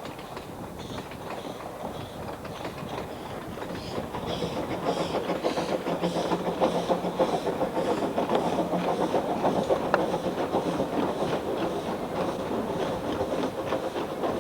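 Narrow-gauge steam train running on the line, a steady rhythmic beat and wheel clatter that grows louder from about four seconds in.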